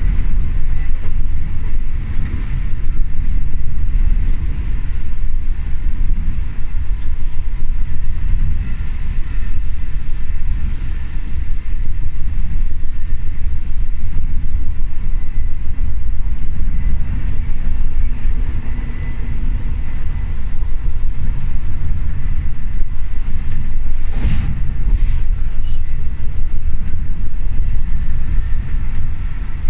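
Cabin noise of a decades-old passenger train in motion: a loud, steady low rumble from the wheels and running gear shaking the carriage. A hiss comes in for several seconds past the middle, and two sharp knocks sound about 24 and 25 seconds in.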